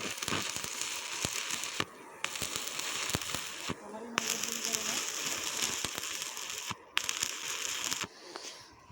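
Electric arc welding: the arc crackling and sputtering in four stretches with brief pauses between them, as the finishing weld is laid.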